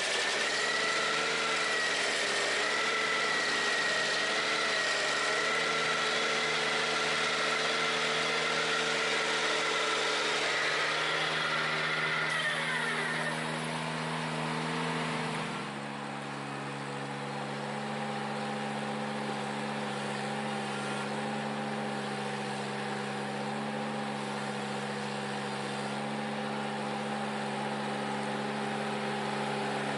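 The Ventrac 4520Z compact tractor's engine runs steadily with the stump grinder attachment, a high whine over the engine note. About twelve seconds in, the whine glides down and fades out. A few seconds later the engine note drops and settles at a new steady pitch.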